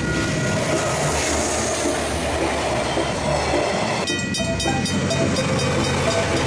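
Diesel freight train passing over a level crossing, engine rumbling and wheels running on the rails. About four seconds in the sound changes to a KiwiRail DL-class locomotive crossing in daylight, with the crossing's Griswold mechanical bells ringing in rapid, even strokes over the engine.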